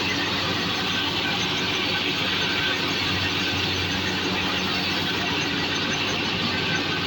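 Fiat 640 tractor's diesel engine running steadily under load while driving a wheat thresher, with the thresher's high-pitched whir over it. The tractor pulls the thresher without strain.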